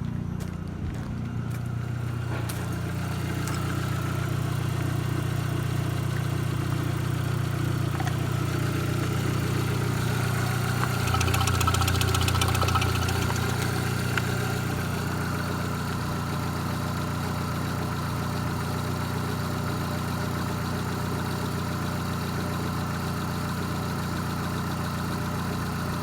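Opel Zafira A's 1.8-litre Z18XE four-cylinder petrol engine idling steadily, its speed rising a little about eleven seconds in for a few seconds before settling back.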